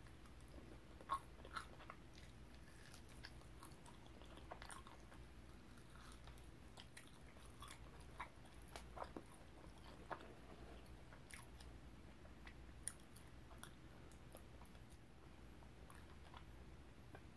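Close-miked chewing of barbecue pork rib meat: faint, scattered mouth clicks and smacks, the sharpest about a second in, over a low steady room hum.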